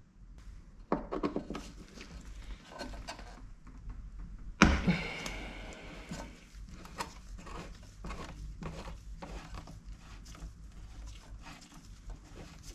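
Knocks, clicks and rattles of parts being handled while a car door's window mechanism is taken apart, with one loud clunk a little before halfway.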